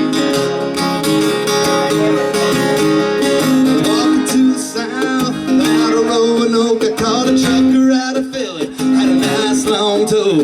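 Live acoustic music with no singing: strummed acoustic guitar under held melody notes, an instrumental break between sung verses.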